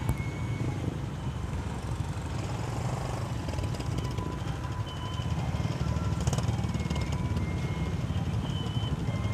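Motorcycle running in slow traffic: a steady low engine and road rumble, with faint thin tones above it.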